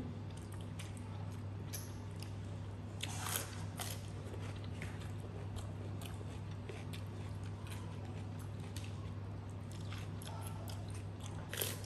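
Close-up chewing and biting of spicy crab, with scattered small clicks of crab shell as fingers pick through it, over a steady low hum. The clicks bunch together about three seconds in and again near the end.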